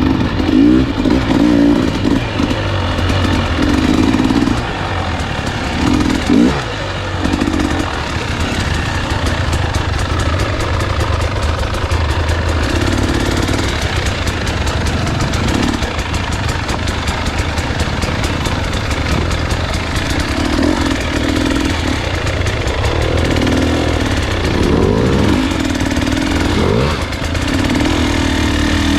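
Husqvarna enduro dirt bike engine running as it is ridden, the revs rising and falling with the throttle, with a few quick rev sweeps about six seconds in and again in the last few seconds.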